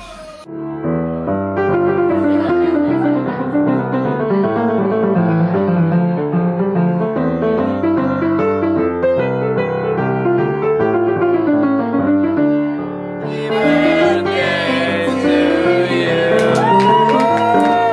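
Solo piano music playing a flowing melody. About thirteen seconds in, room sound comes in under it: voices and some sharp clicks.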